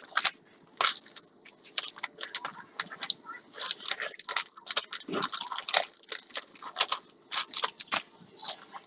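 Packaging being handled and torn open: a continuous run of irregular crinkling and tearing rustles.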